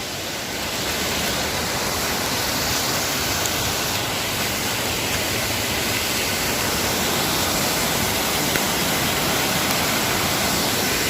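Rushing water of a waterfall: a steady, even hiss that grows a little louder about a second in.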